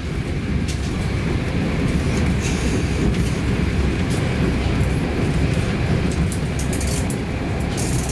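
Passenger train running along the track: a steady low rumble with faint scattered ticks above it.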